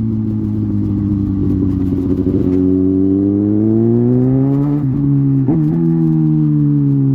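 Kawasaki ZX-6R inline-four engine with an SC Project exhaust running hard at highway speed. Its pitch sags slightly, then climbs steadily for about two seconds as it accelerates. Two sharp breaks in the pitch come about five seconds in, then the engine holds a steady note.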